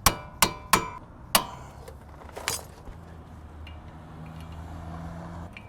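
Hammer blows on steel brake parts, four sharp ringing strikes in the first second and a half. A low steady hum follows through the second half.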